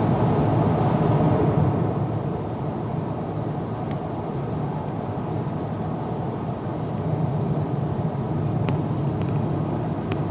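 Steady cabin noise inside an Airbus A350-900 airliner in flight: a low rumble of engine and airflow, a little louder at first, with a few faint ticks.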